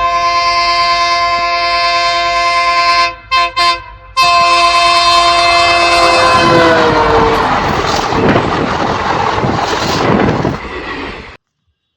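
Indian train's horn blowing a loud held chord, broken by two short toots about three seconds in, then falling slightly in pitch as the train passes close by. The rush and clatter of the passing train takes over in the second half, and the sound cuts off suddenly near the end.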